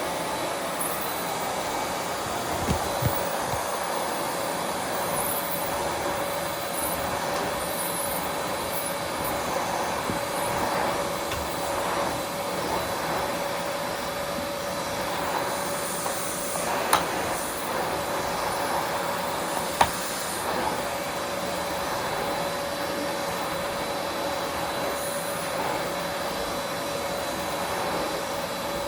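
Vacuum cleaner running steadily with a constant whine, with a few sharp knocks scattered through.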